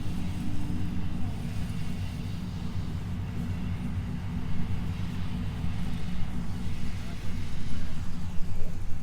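A vehicle engine idling steadily with a low rumble, with people's voices faintly in the background.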